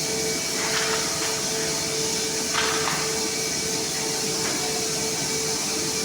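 CNC laser cutting machine running: a steady airy hiss with a constant hum underneath and a few faint clicks.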